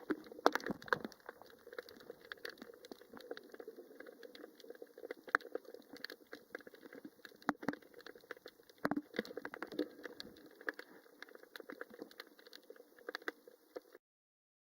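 Faint, irregular clicking and crackling heard underwater, several sharp ticks a second, cutting off suddenly near the end.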